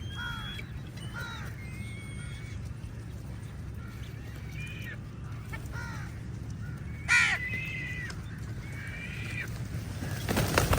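A flock of crows cawing, many short calls one after another, the loudest about seven seconds in, over a steady low rumble. A rush of noise builds near the end.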